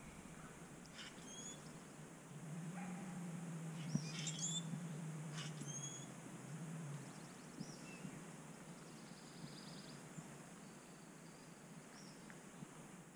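Scattered faint bird chirps and short whistled calls, with a low steady hum in the middle for about four seconds.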